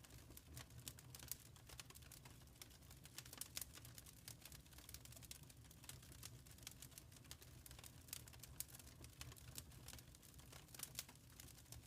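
Wood fire crackling quietly: many small irregular pops and snaps over a low steady rumble of flames.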